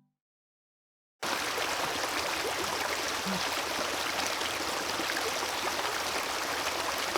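Silence for about a second, then the steady rushing of a stream starts abruptly and runs on evenly.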